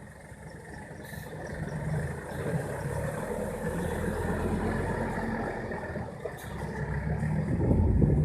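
Six-wheel dump truck's engine running, its low drone rising in loudness over the first couple of seconds and again toward the end.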